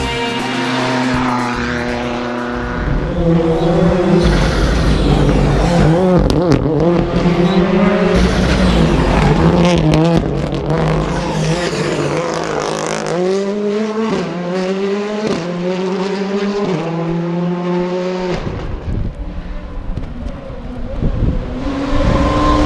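Rally car engine revving hard under full acceleration. Its pitch climbs and drops back at each upshift, with a quick run of gear changes past the middle.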